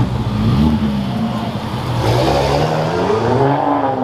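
A car engine accelerating, its pitch climbing over a couple of seconds in the second half.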